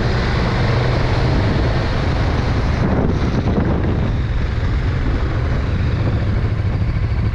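KTM 1290 Super Duke R's V-twin engine running steadily while riding, under heavy wind rushing over the microphone.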